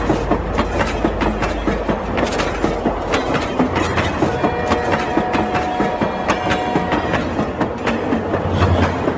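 Battery-powered plastic toy train running, its wheels and gearing clattering in a fast, even rhythm of about three or four clicks a second, with a faint steady whine partway through.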